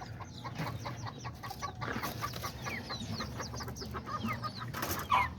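Several bantam chickens clucking, with many short, high, downward-sliding chirps and a louder call about five seconds in.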